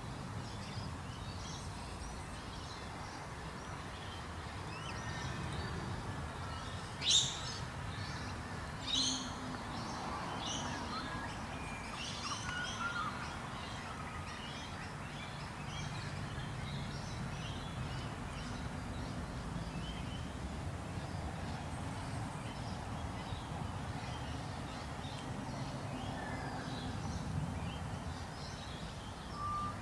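Small birds chirping and calling in the background over a steady outdoor noise, with two louder, sharp calls about seven and nine seconds in.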